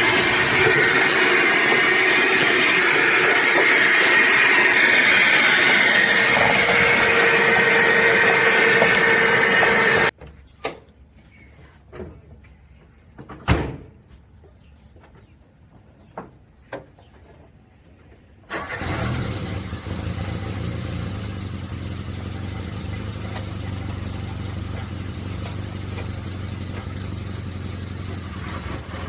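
A vacuum cleaner motor runs loudly and steadily for about ten seconds, then cuts off. A few sharp knocks follow in near quiet. Then the 1987 Suzuki Samurai's four-cylinder engine runs steadily at idle through the rest.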